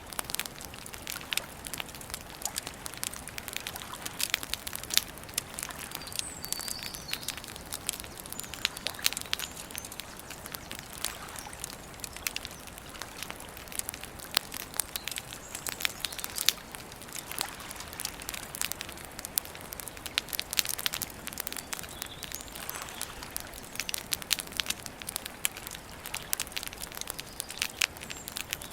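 Campfire of burning wood crackling, with irregular sharp snaps and pops.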